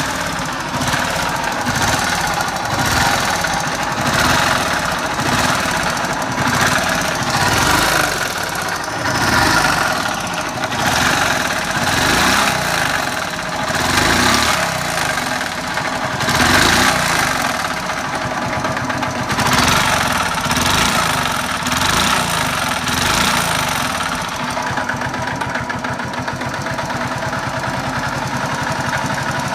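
Honda Little Cub's small single-cylinder four-stroke engine running with a rattle, revved up and down every couple of seconds and then settling to a steady idle near the end. The owner suspects the rattle comes from the crankshaft or cylinder.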